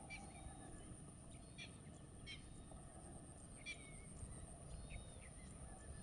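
Faint short bird chirps, about half a dozen scattered through, over a low steady rumble of wind and a thin constant high-pitched whine.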